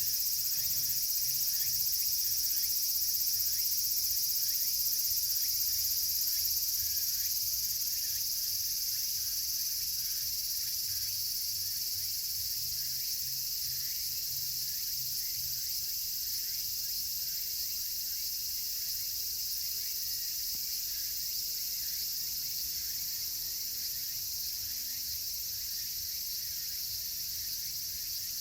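Dense, steady chorus of cicadas (semi-shigure), high-pitched and unbroken, with faint crackling from a campfire underneath.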